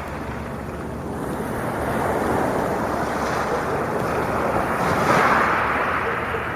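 Sea waves washing onto a beach, a steady hiss that swells as a wave breaks about five seconds in and then eases back.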